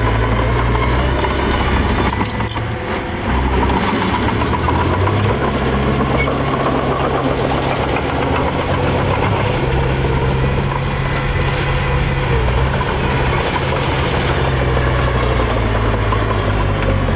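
Small bulldozer's diesel engine running steadily at working revs, its deep drone rising and falling a little, with a few brief metallic clanks.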